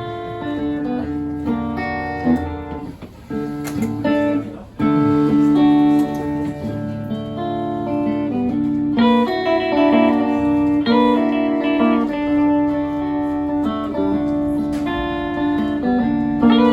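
Live band's guitar intro to a song, with no singing: held, ringing guitar chords and notes. There is a brief break about four to five seconds in, and the sound fills out from about nine seconds in.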